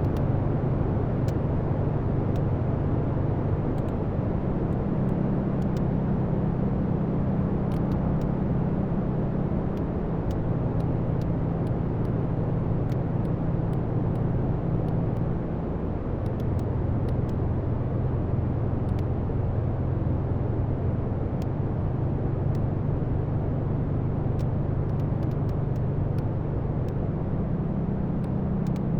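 Wood fire burning in a fireplace: a steady low roar of the flames with small scattered crackles and pops of the burning logs.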